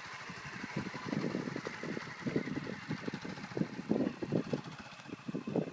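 A motorcycle running, with a steady hiss and uneven low rumbling surges.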